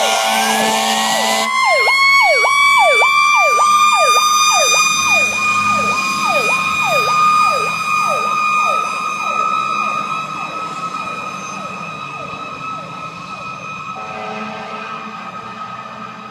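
Fire engine sirens. A horn blares until about a second and a half in, then a fast repeating electronic yelp sounds over a steady wailing siren tone, and both fade as the engine moves away.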